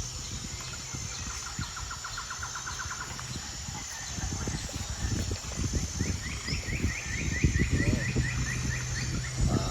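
Birds calling outdoors: one rapid trill of repeated short notes about a second in, and a higher series of quick notes, a few a second, later on. Low knocks and clatter run underneath and grow louder in the second half, with a faint steady high whine throughout.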